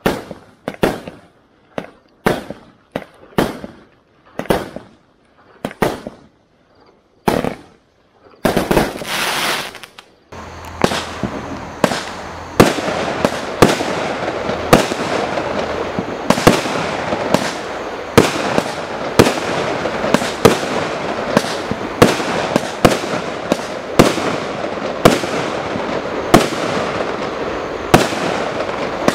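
Consumer 1.3G firework barrage cakes firing. The first cake fires a string of single shots, about one or two a second, that thin out and stop. After a short gap, a loud rushing noise leads into the next cake, which runs on as a sharp bang about once a second over a continuous dense crackle of bursting stars.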